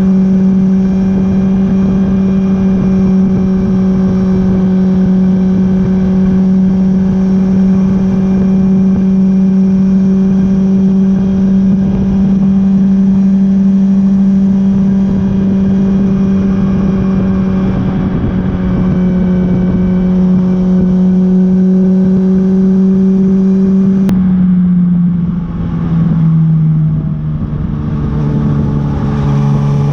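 Honda CB1000R's inline-four engine running at steady revs while the motorcycle is ridden, with wind and road noise. About 24 seconds in, the revs drop in a few steps, then start to rise again near the end.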